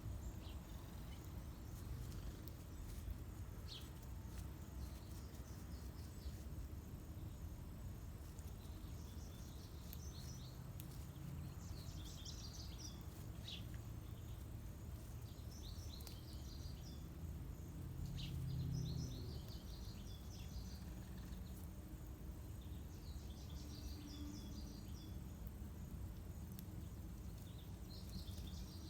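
Small songbirds chirping in short scattered bursts over a steady low outdoor rumble, which swells briefly about two-thirds of the way in.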